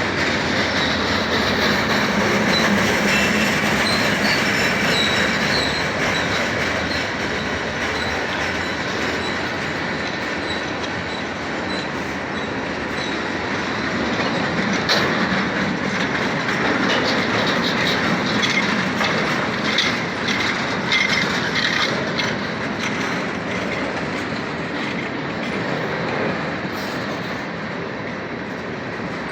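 Freight train rolling past: a steady rumble of steel wheels on rail, with a run of clicks over rail joints in the middle and faint wheel squeal at times.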